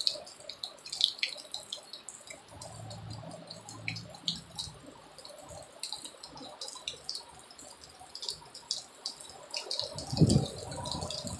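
Rain dripping: scattered drops tapping at irregular intervals. A brief low sound comes about ten seconds in.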